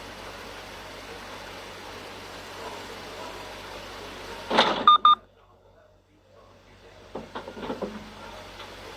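Steady vehicle road noise, broken about four and a half seconds in by a loud short burst and two quick high beeps. The sound then cuts out almost to silence for a second or two before a few quieter knocks come back.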